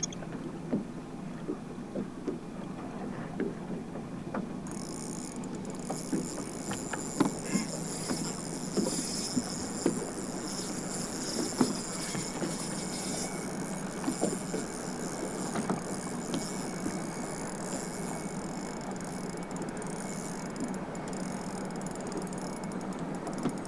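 Boat on the water, with a steady wash of water and wind and small knocks and clicks from handling on the hull. A high, thin, steady hiss comes in about five seconds in and drops away near the end.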